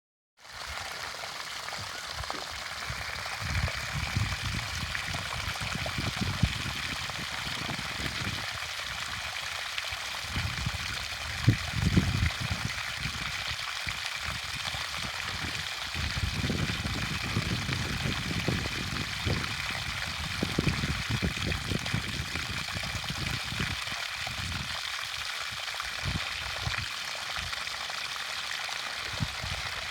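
Water pouring steadily out of a drilled water well, a constant rushing hiss with uneven low rumbling swells underneath.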